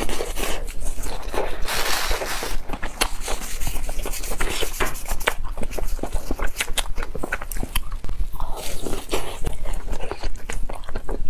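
Close-miked chewing of fried cloud bread with wet mouth clicks and smacks, many short sharp clicks in quick succession. About halfway through, plastic-gloved fingers rustle as they roll a piece of the bread in sugar.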